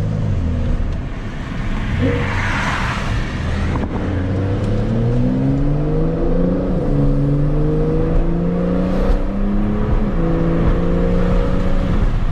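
Porsche 911 Carrera 4 GTS twin-turbo flat-six, exhaust valves open, accelerating hard through the gears on paddle-shifted PDK upshifts. Engine pitch climbs steadily and drops sharply at each shift, about two, six and a half and ten seconds in.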